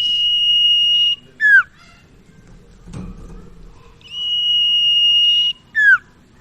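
Common iora (sirtu, cipoh) singing: a long level whistle held for over a second, then a quick sharply falling note, given twice.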